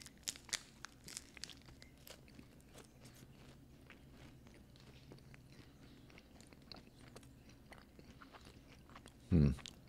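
Biting into and chewing a chocolate-covered wafer bar close to the microphone: a few sharp crunches in the first couple of seconds, then quieter chewing. A brief low thump near the end.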